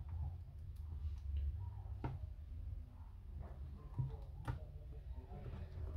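A few light, scattered clicks and taps, the clearest about two seconds in and twice more near four and a half seconds, from small parts and tools being handled while taking apart an Apple Time Capsule, over a low steady hum.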